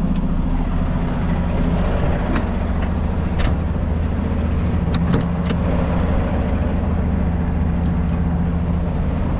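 Semi-truck's diesel engine idling steadily, with a few light clicks along the way.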